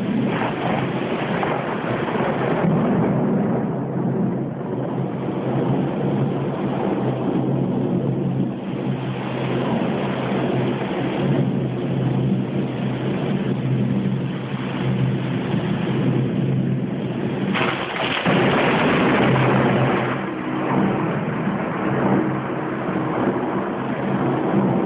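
Thunderstorm: thunder rumbling continuously over steady rain, with a sudden louder clap of thunder about two-thirds of the way through.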